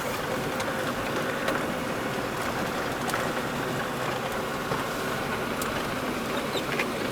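Old Land Rover driving, its engine running steadily under a constant rush of road and rain noise, with scattered light ticks.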